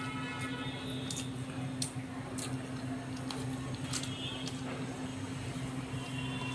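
Wet, squishy eating sounds of spicy egg curry and rice, with scattered small clicks, over a steady low hum.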